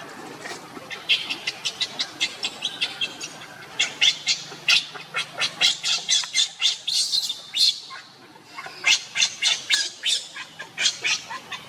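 An animal giving rapid runs of short, high-pitched calls, several a second, in two bouts with a brief pause about eight seconds in.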